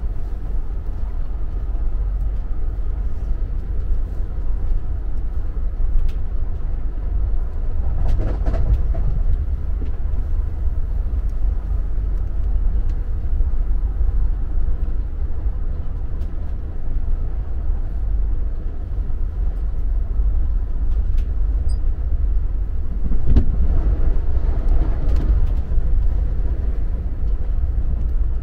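AREX all-stop commuter train running along the track, heard from inside a carriage: a steady low rumble. It swells briefly about eight seconds in and again near the end.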